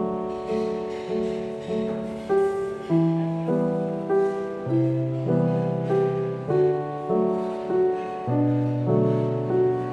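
Background piano music: a gentle solo piano piece with chords struck at a steady, unhurried pace.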